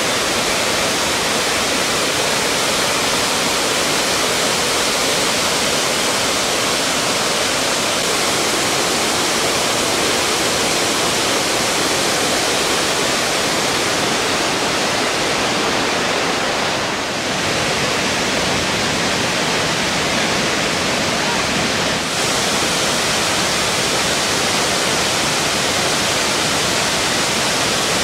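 Dzhuryn waterfall on the Dzhuryn river, water falling and rushing in a loud, steady roar that briefly softens about two-thirds of the way through.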